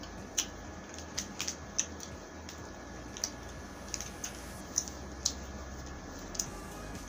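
Close-miked eating sounds: chewing with about a dozen small sharp mouth clicks scattered irregularly over a steady low hiss.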